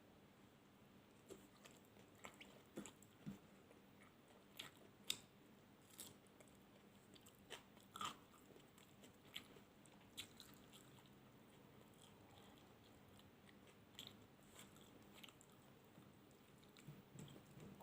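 Close-miked chewing and biting of food, with irregular soft crunches and wet clicks of the mouth, busiest in the first ten seconds or so and again near the end.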